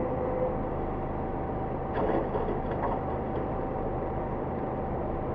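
Steady low rumble of a car driving, with a faint constant whine and a few light knocks about two seconds in.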